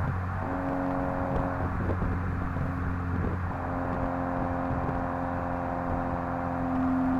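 A 2016 VW Mk7 GTI's turbocharged 2.0-litre four-cylinder runs at a steady engine speed through an aftermarket 3-inch downpipe and non-valved exhaust. It holds an even drone, with slight shifts in tone about half a second and three and a half seconds in.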